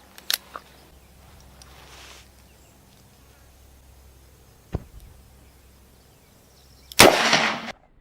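A few faint clicks, then a single .357 Magnum gunshot from a 4-inch Smith & Wesson 686 revolver about seven seconds in, the loudest sound here, ringing out briefly before it cuts off sharply.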